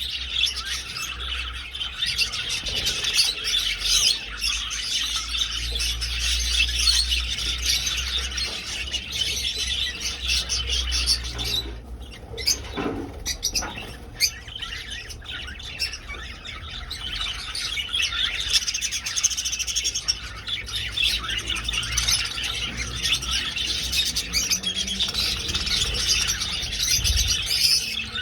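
A flock of budgerigars chirping and chattering continuously, thinning out for a few seconds about halfway through before building back up.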